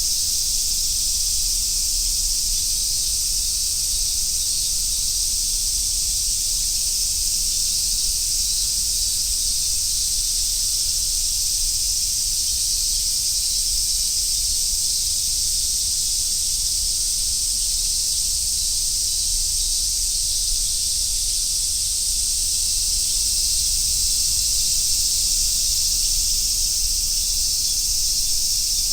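Chorus of summer cicadas, large brown cicadas among them: a steady, high sizzling drone with no breaks.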